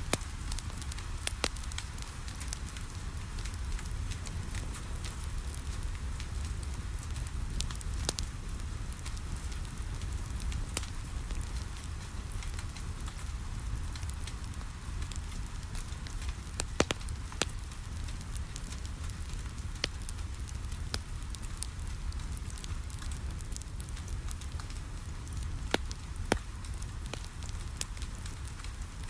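Wood fire crackling in a fireplace, with sharp pops at irregular intervals and a few louder ones, over a steady hiss of rain against a window and a low rumble.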